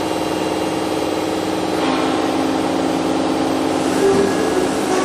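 Toshiba MPF-2114C machining center's spindle running at about 5,000 RPM, a steady whine made of several tones. The sound brightens about two seconds in, and a higher, wavering tone joins about four seconds in.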